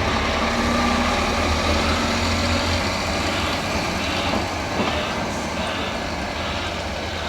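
Lorry's diesel engine running steadily with a low hum. From about three seconds in, a vehicle's reversing beeper sounds faintly, about one and a half beeps a second.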